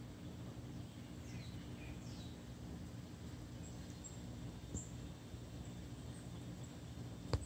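Quiet backyard ambience with a steady low hum, a bird giving two short falling calls about a second in, and faint high chirps. A single sharp click near the end.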